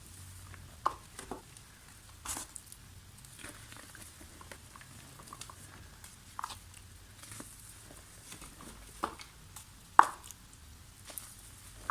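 Lumps of soft dried mud crumbling: scattered, irregular crunches and light crackles, the loudest about ten seconds in.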